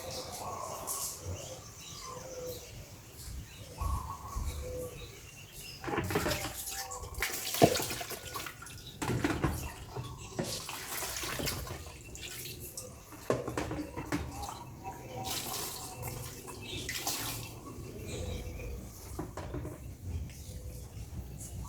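Water splashing and running in several irregular short bursts.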